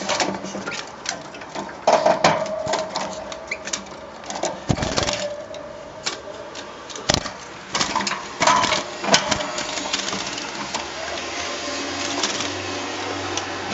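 Caged pet birds moving about and pecking: an irregular run of sharp clicks and taps, with a few short calls.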